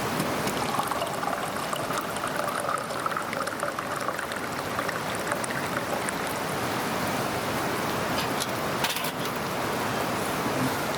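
Steady sizzling of food frying on a hot pan over a wood fire, with a few faint crackles near the end.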